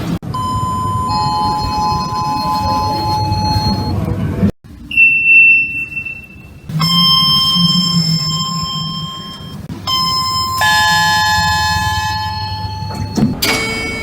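A string of elevator chimes cut one after another: a two-note falling ding-dong, a single high beep, a single ding, then another two-note falling chime with a richer ringing tone. Each rings out and dies away over a few seconds.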